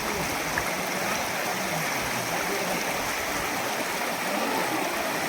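Steady, even rush of flowing water, a waterfall or fast river.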